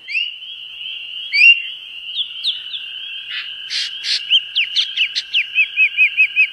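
Birds chirping over a continuous high-pitched steady tone, with scattered short sweeping calls that turn into a fast, even run of repeated notes, about seven a second, in the last second and a half.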